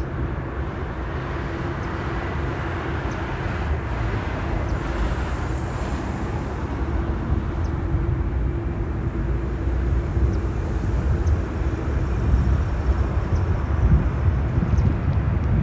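Jet airliner taking off, its engines at takeoff power giving a steady rumble that grows louder in the second half.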